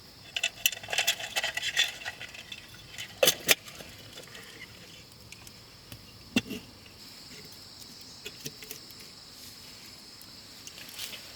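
Steady high insect drone, with scattered clicks and crackles near the start, two loud sharp cracks about three seconds in and one more a few seconds later.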